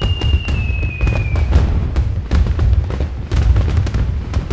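Aerial firework shells bursting in quick succession: a rapid, irregular string of bangs and crackles over a deep rumbling boom. A thin whistle falls in pitch during the first second and a half.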